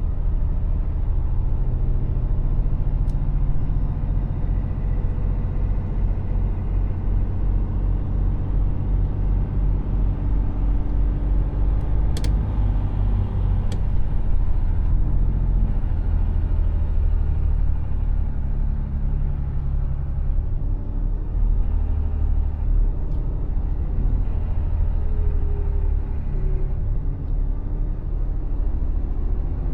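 Mercedes Actros truck driving: the diesel engine and road noise run steadily, with a sharp click about twelve seconds in.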